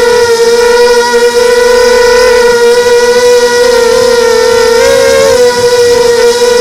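Loud, steady motor-and-propeller whine held at one pitch, with a brief rise in pitch about five seconds in.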